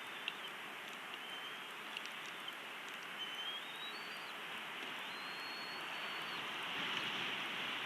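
Steady outdoor hiss with a few thin, faint whistled notes from a bird. The notes are mostly level and one rises; the longest lasts about a second. There are a few small clicks.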